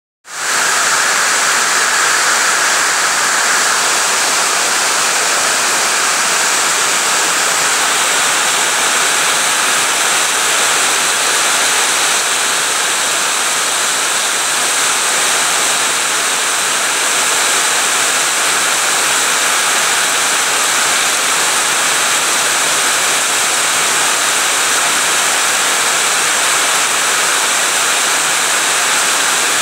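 Heavy rain falling, a dense steady hiss that fades in at the start and holds level throughout.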